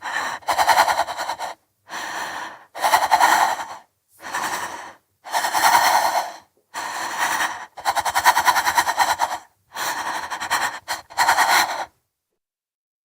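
A woman breathing hard through an open mouth in shaky, stuttering breaths, about ten in and out breaths of around a second each, as if shivering with cold. The breathing stops about 12 seconds in.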